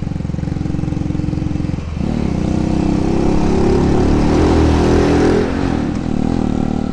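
Motorbike engine running under load on a steep climb, with a brief dip about two seconds in, then louder with more hiss through the middle.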